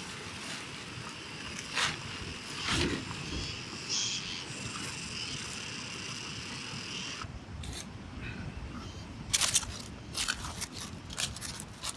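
Steady outdoor hiss, then, from about three-quarters of the way in, a run of sharp crackles and clicks from campfire cooking.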